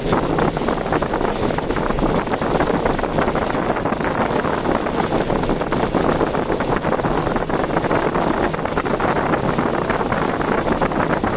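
Steady noise of a car being driven in strong typhoon wind: road and wind noise that does not let up.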